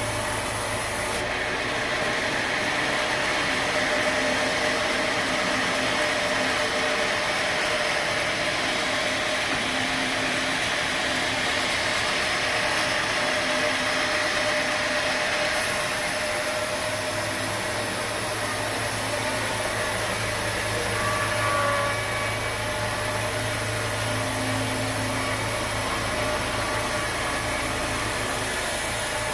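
Sawmill machinery running steadily, an engine-driven saw cutting timber, with a brief higher squeal about 21 seconds in.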